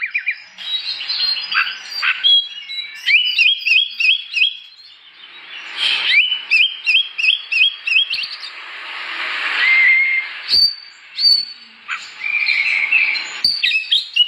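Oriental magpie-robin (kacer) singing loudly and continuously: quick runs of repeated, sliding whistled notes, about four or five a second, mixed with a harsher rasping phrase near the middle.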